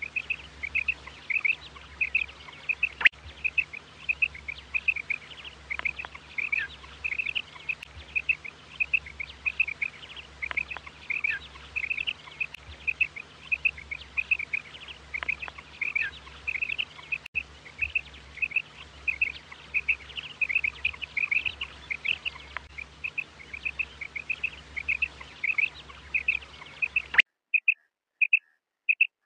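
Female quail calling: short, high chirps repeated about three times a second in a steady run. About 27 seconds in the sound cuts out abruptly, leaving only a few faint calls.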